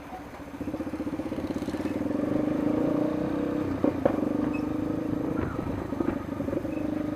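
Yamaha Lander 250's single-cylinder engine running as the bike rides, getting louder over the first two seconds and then holding steady. A couple of short knocks about four seconds in.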